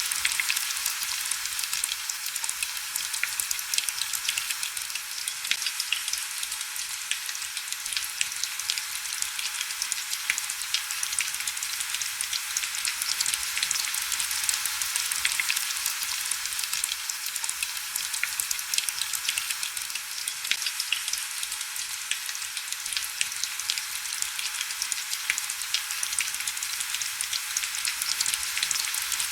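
Steady heavy rain: a dense, even patter of many small drops, mostly high-pitched hiss with little low rumble.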